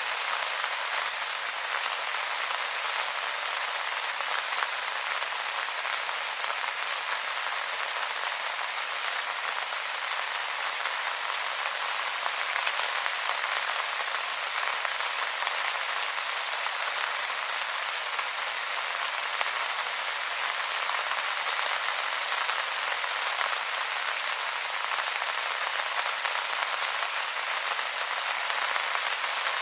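Rain falling steadily on wet leaves: a dense, even patter with no single drops or other sounds standing out.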